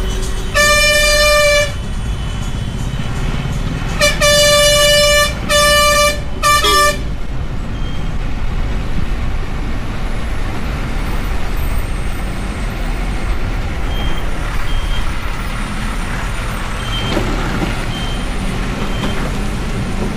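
A heavy vehicle's horn sounds four times: one blast of about a second, then after a pause a longer blast, another, and a short final toot. A low, steady heavy engine rumble runs underneath and carries on alone afterwards.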